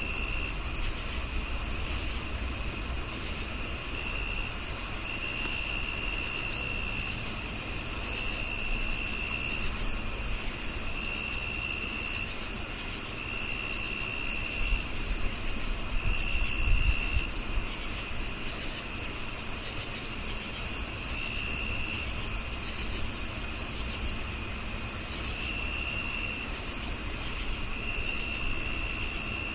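Crickets chirping in chorus: a steady high trill, with an even pulsing chirp about two or three times a second over it and a lower trill that comes in bursts of about a second every couple of seconds. A brief low rumble sounds a little past halfway.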